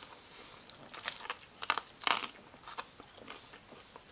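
A man chewing a mouthful of crispy homemade fried chicken close to the microphone: a run of irregular crisp crunches from the fried coating, the strongest about one and two seconds in.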